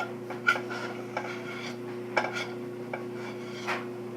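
A metal spoon knocking and scraping against a cooking pot as no-bake cookie mixture is scooped out, about six clinks with a short ring, over a steady hum.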